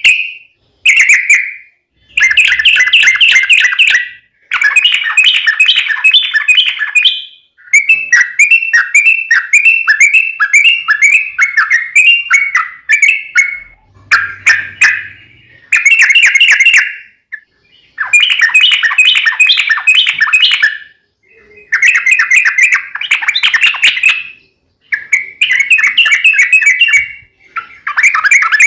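Yellow-vented bulbul (trucukan) singing loud, rapid, bubbly phrases of quick chattering notes. About ten phrases come with short pauses between them, and the longest is a run of about six seconds near the middle.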